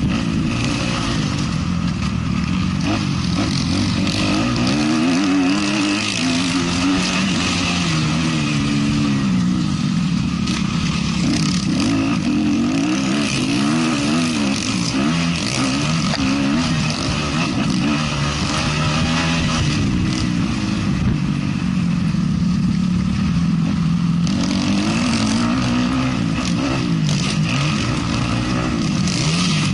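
A 450cc motocross bike's engine racing, its pitch rising and falling over and over as the rider opens and shuts the throttle through the course, over a steady rushing hiss.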